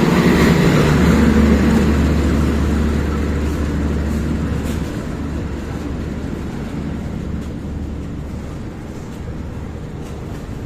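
A train's diesel locomotive running with a steady low rumble, loudest at first and slowly fading as it moves off.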